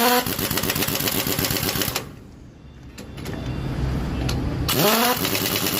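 Impact wrench running on a truck wheel's lug nuts in two bursts: each spins up with a rising whine, then hammers in a fast rattle. The first burst stops about two seconds in, and the second starts near the end.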